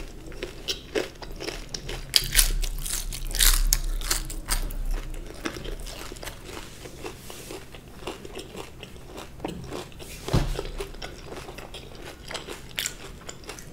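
Close-miked chewing of a jalebi, with crunchy bites and wet mouth sounds. The crunching is densest and loudest a few seconds in, with one more sharp crunch near the end.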